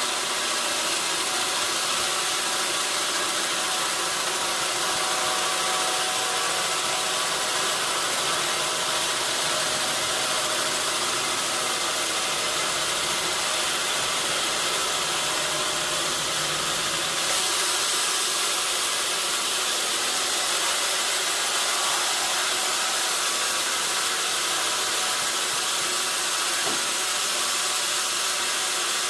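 Sawmill saw machinery running steadily: a constant loud hiss over a low hum, getting slightly louder about seventeen seconds in.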